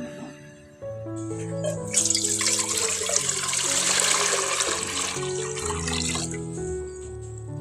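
Water running into a sink, starting about two seconds in and stopping near the end, over background music with held notes.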